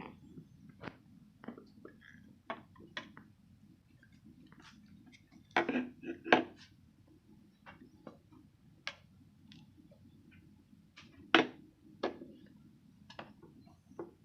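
Light clicks and knocks of tableware being handled during a meal, chopsticks and dishes tapping, with a few louder clatters about halfway through and again near the end.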